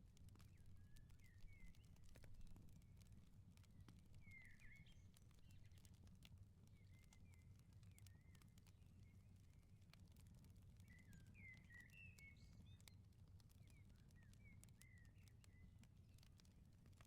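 Faint wood fire in a firepit crackling, with many small scattered pops over a low steady rumble. Small birds chirp in short bursts every few seconds.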